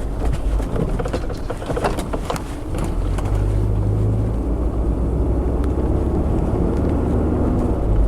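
Car driving, its engine hum and road noise heard from inside the cabin, with scattered knocks and rattles over the first few seconds before it settles into a steadier hum.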